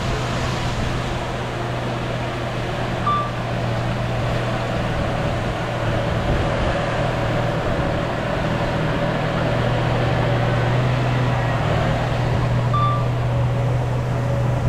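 Bulldozer diesel engine running at a steady pitch, with two brief high chirps, one about three seconds in and one near the end.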